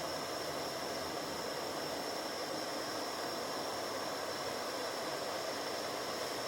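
Steady forest ambience: a constant high-pitched insect drone over an even rushing hiss, with no change.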